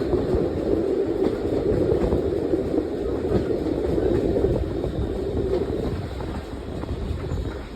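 GWR Prairie 2-6-2 tank steam locomotive working hard up a 1 in 100 gradient, its exhaust beating heavily over the run of the train on the rails. The sound eases off somewhat near the end.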